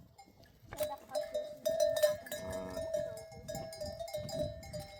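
Livestock bells clanking and ringing irregularly as a herd moves, with a brief bleat about halfway through.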